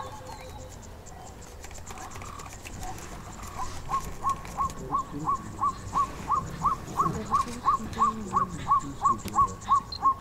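A bird calling a long, even series of short whistled notes, about three a second. It starts about a third of the way in and grows louder.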